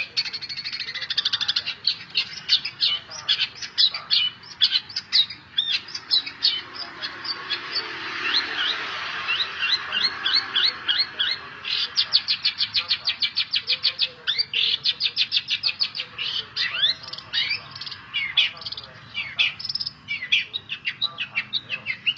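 Long-tailed shrike (cendet) singing a busy chattering song of sharp quick notes, short rising and falling whistles and harsh squawks, with fast, even runs of rapid notes about halfway through.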